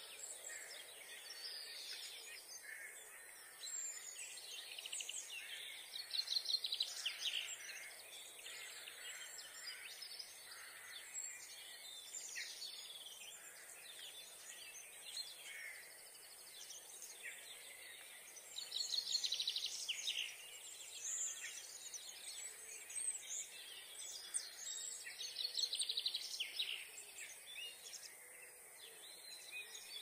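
Early-morning chorus of several songbirds singing overlapping phrases and rapid trills over a steady faint hiss. The song is loudest in bursts about six, nineteen and twenty-five seconds in.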